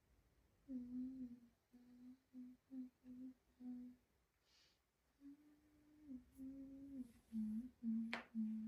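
A person softly humming a tune: a run of short notes, a pause, then a second phrase that steps down in pitch near the end.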